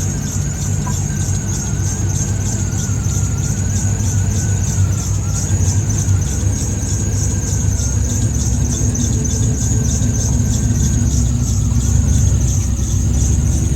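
Turbocharged Chevrolet Silverado V8 running steadily without revving, with a high wavering whine over the engine sound.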